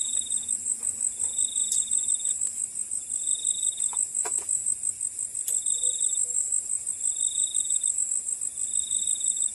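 Night insect chorus in a rice field: a steady shrill cricket drone, with a second insect's trill repeating about every second and a half. A few faint ticks or knocks come through it.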